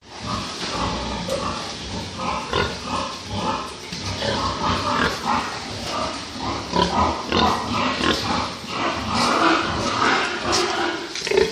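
Many pigs grunting and squealing together in a pen, a continuous overlapping chorus of short calls.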